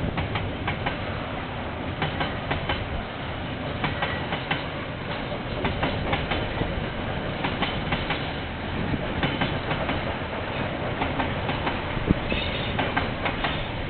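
KiwiRail train rolling past, its wagons' wheels clattering over the rail joints in a continuous run of irregular clicks over a steady rumble, heard through a security camera's microphone.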